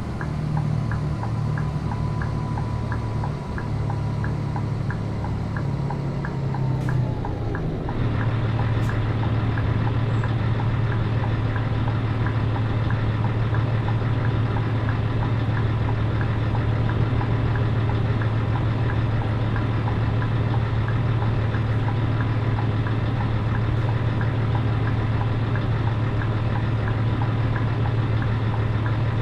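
Scania 113 truck's diesel engine running steadily; about eight seconds in its sound changes and becomes slightly louder and more even.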